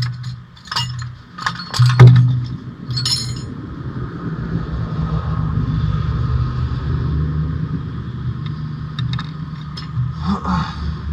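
Metal tools and car parts clinking and knocking during clutch work, with several sharp strikes in the first few seconds and a few more near the end, over a steady low hum.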